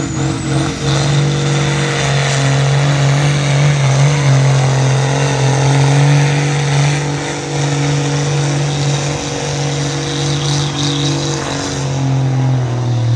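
Engine of a pulling truck or tractor held at full throttle under load during a pull, a loud steady run at high revs after a few quick revs at the start. A high whistle rises near the start and holds, and the engine note begins to drop right at the end.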